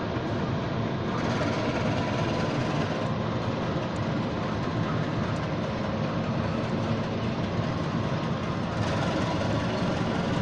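Diesel-hauled passenger train running slowly on the adjacent track: the locomotive's engine runs steadily under the rumble and rattle of the coaches' wheels.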